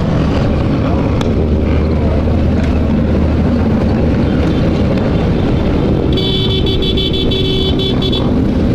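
Motorcycle engine and wind rumbling steadily while riding at speed. A vehicle horn sounds in quick pulses for about two seconds near the end.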